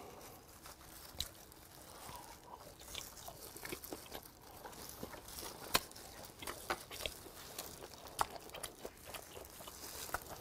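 A mouthful of grilled hagfish being bitten and chewed close to the microphone: irregular small crunching clicks, a few sharper ones about a second, six seconds and eight seconds in.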